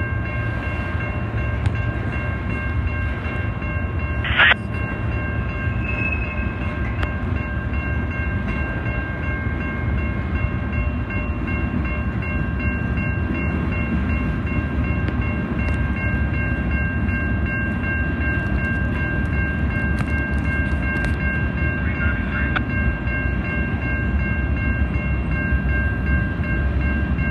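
Freight cars of a manifest train rolling past at a crossing: a steady rumble of wheels on rail with a continuous high-pitched ringing tone over it. A single sharp clank about four and a half seconds in.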